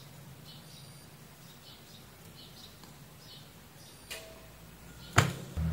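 Faint, short bird chirps in the background, then a sharp click about five seconds in, followed just before the end by a low steady hum.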